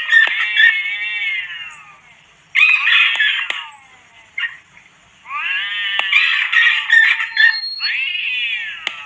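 Cat yowling in four long, drawn-out cries, each bending down in pitch as it fades, over a thin, faint high-pitched tone that climbs slowly. It is a mixed cat-and-tone track played to drive rats away.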